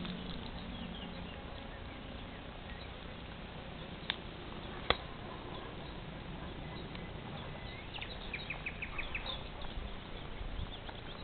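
Outdoor ambience with a bird calling faintly: scattered high chirps and, about eight seconds in, a quick run of five or six short high notes. Two sharp clicks come a little under a second apart near the middle.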